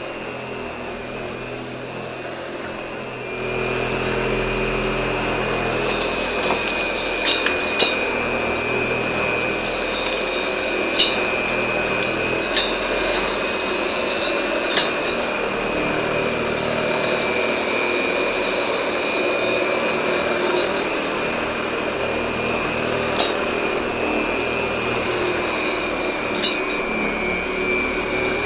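Hoover model 700 upright vacuum cleaner running, its motor giving a steady high whine. It grows louder about three and a half seconds in, and a few sharp clicks sound through the run.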